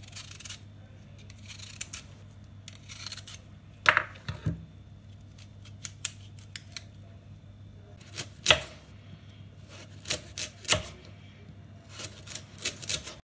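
Scattered clicks and knocks of kitchen utensils and dishes being handled during food preparation, the loudest about four and eight and a half seconds in, over a steady low hum.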